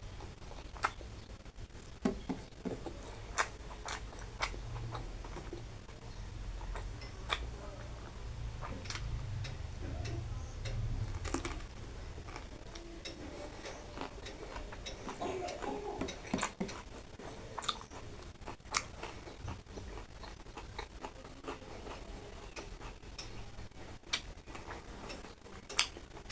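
A person eating close to the microphone: chewing and lip smacks, with scattered sharp clicks, over a low steady hum.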